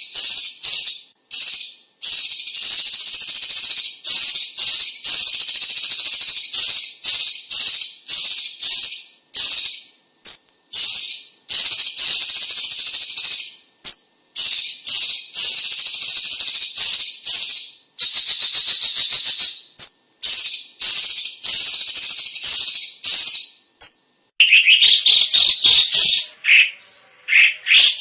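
Cucak cungkok bird giving long, harsh hissing rattle calls in repeated bursts with short breaks between them. Near the end it switches to separate, clearer chirping notes.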